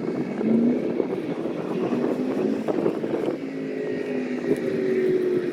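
Vehicle engine running, its steady pitch drifting and falling slightly near the end, over a noisy background.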